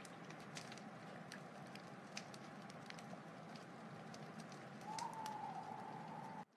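Wood fire crackling, with a steady soft hiss and scattered sharp pops. Near the end a thin whistling tone holds for about a second and a half, then the sound cuts out abruptly for a moment.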